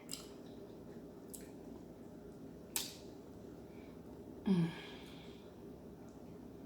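Faint eating sounds from a seafood meal: three short sharp clicks, the loudest near the middle, and a brief hummed 'mm' about four and a half seconds in, over a steady low room hum.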